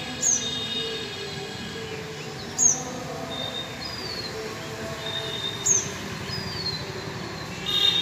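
Birds calling: a sharp falling chirp repeated every two to three seconds, with thinner falling whistles in between. Under them runs a steady high-pitched squeal along with a low rumble.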